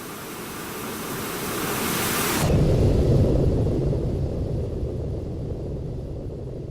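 Boeing 737-300 landing: loud rushing jet and air noise swells, then about two and a half seconds in it changes suddenly to a heavy low rumble, as at touchdown, which slowly fades.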